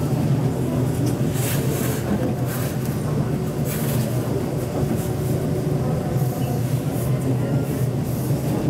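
MTR East Rail Line MLR (Metro-Cammell) electric multiple unit running, with a steady low hum and rumble of motors and wheels on rail. A few short high hisses come through in the first few seconds.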